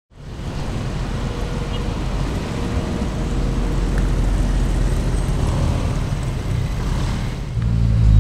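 Classic Ford Mustang fastback's engine rumbling as it pulls slowly past. Near the end a louder, deeper engine rumble comes in from a Honda Civic Type R driving off.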